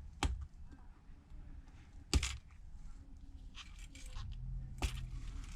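Flex cable connectors of an iPad Pro 12.9 (3rd gen) being pried off the logic board with a small tool: three sharp clicks, the loudest about two seconds in, with a light scraping just before the last.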